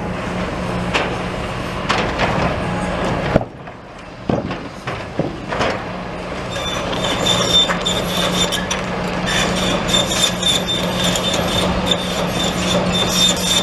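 Construction machine's engine running steadily while wooden planks clatter and knock as they are dropped and shoved about. From about halfway a high steady whine and fast clattering join in.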